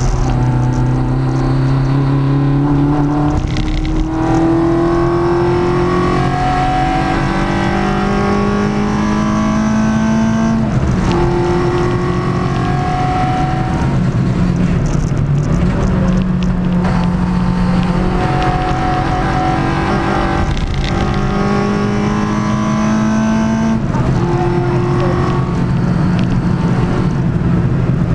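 Peugeot 106 track car's four-cylinder engine on Jenvey individual throttle bodies, heard from inside the cabin under hard acceleration. The pitch climbs through each gear and drops sharply at each gear change, several times over.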